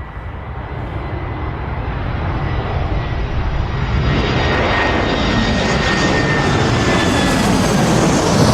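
Jet aircraft engine noise swelling steadily as the plane approaches, with a high whine that dips slightly in pitch partway through.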